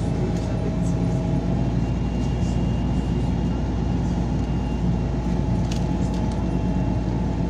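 Steady engine and drivetrain drone of a MAZ-203 city bus heard from inside the cabin while it drives, with a few light rattles and clicks.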